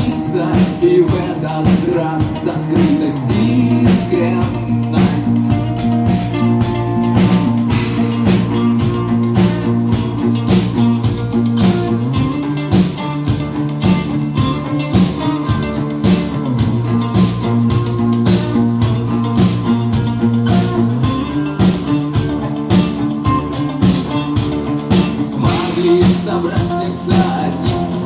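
A rock band playing live, an instrumental passage with guitar, sustained bass notes and a steady drum-kit beat.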